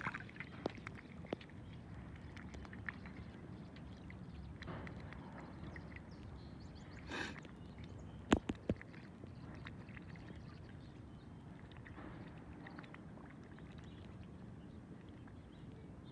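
Water and paddle noise around a small kayak on the water, a steady low wash with scattered light clicks. A few sharp knocks come just after the middle.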